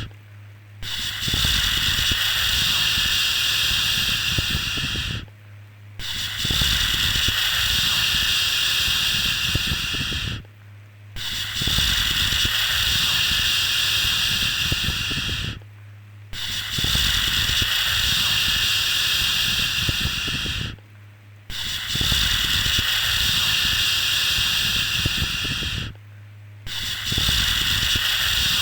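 Long 'shhh' shushing sound for settling a baby, a steady hiss over a low rumble. It repeats about every five seconds with a short break between each shush.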